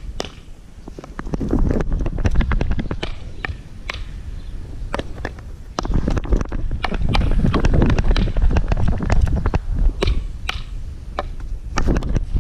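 Low rumble and buffeting on an action camera's microphone, with many irregular sharp clicks and knocks, growing louder about halfway through.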